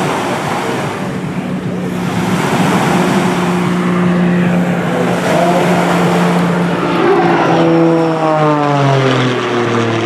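CAP 231 aerobatic monoplane's piston engine and propeller running at high power, a steady drone that drops in pitch over the last couple of seconds as the plane passes by.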